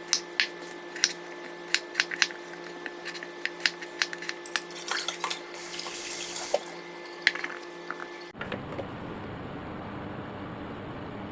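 Dishes and utensils clinking and knocking again and again, with a tap running briefly in the middle. About eight seconds in, the sound cuts off abruptly to a steady rushing noise.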